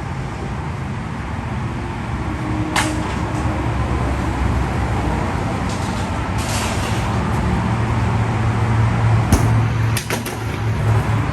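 Steady low vehicle rumble that slowly grows louder, with a few sharp knocks: one about three seconds in and a quick cluster near the end.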